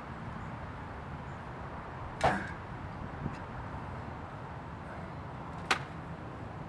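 Two sharp knocks about three and a half seconds apart, with a fainter knock between them, over a steady low background.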